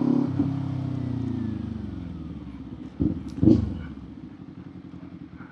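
Kawasaki Z400 parallel-twin engine and exhaust dropping in pitch and fading as the bike rolls off the throttle, then two short throttle blips about three seconds in before it settles to a low, quiet run.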